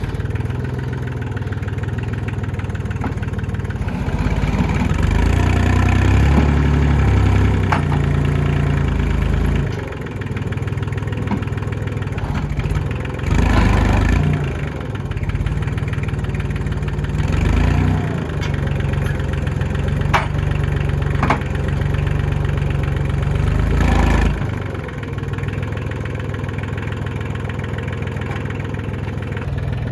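Farm tractor engine running steadily under load while lifting a hay bale of over 1,000 pounds on front forks. The engine is pushed harder for several seconds early on, and it surges briefly three more times.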